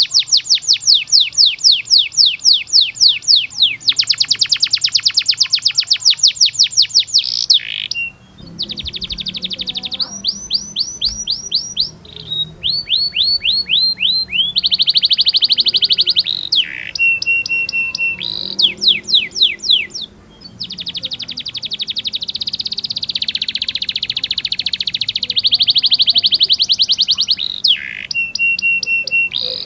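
Domestic canary singing a long, varied song: fast repeated trills (rolls) of sweeping notes, changing into short phrases of rising-and-falling notes, with a few steady held whistles.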